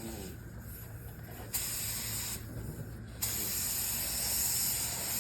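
Air-powered paint spray gun hissing as it sprays paint onto a bumper: a short pull of the trigger about a second and a half in, then a longer one from about three seconds in. The painter shoots with the gun as it is after it was cleaned without taking off its cap.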